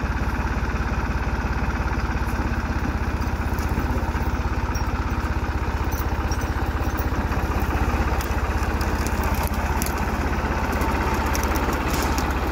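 New Holland TD65 tractor's diesel engine running steadily at an even pace, with a few faint light clicks over it in the second half.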